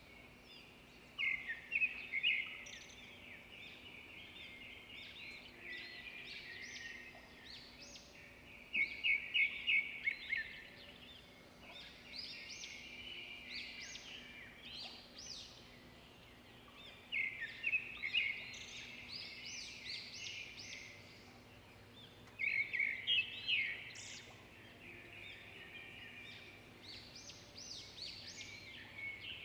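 Bird chirping and twittering: loud clusters of fast, rapid-fire chirps about every seven seconds, with quieter twittering in between, over a faint steady hum.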